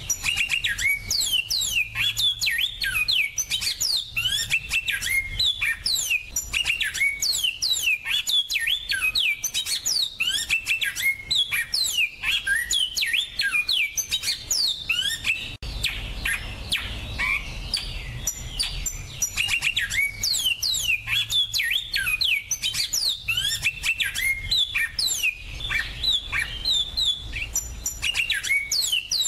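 Small captive finches singing a fast, continuous twittering song of high, quick sweeping notes. About halfway through there is a brief break where one stretch of song gives way to another.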